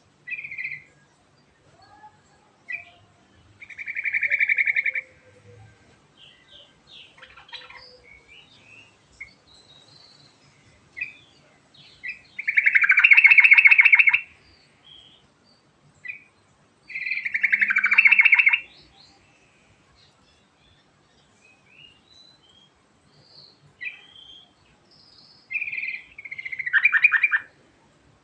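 Yellow-vented bulbul singing: four loud bubbling phrases of one to two seconds each, with short chirps in between.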